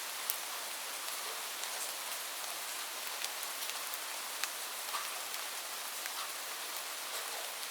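Steady rainfall: an even hiss of rain with individual drops ticking sharply on a surface every so often.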